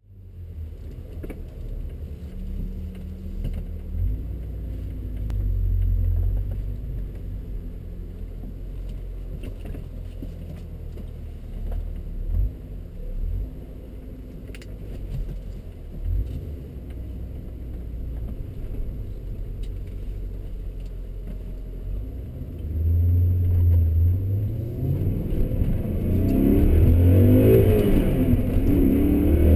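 2003 BMW M5 (E39) 4.9-litre V8, heard from inside the cabin, running with a low rumble at low revs. Near the end it gets louder and its pitch climbs as the car accelerates.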